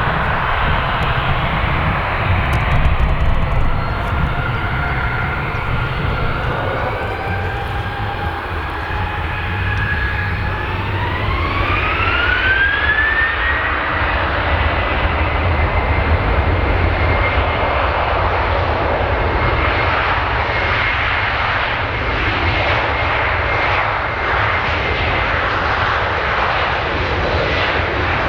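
Boeing 737's twin turbofan jet engines spooling up for takeoff: a whine rises steeply about ten to thirteen seconds in, then holds as a steady high tone over a loud roar at takeoff thrust.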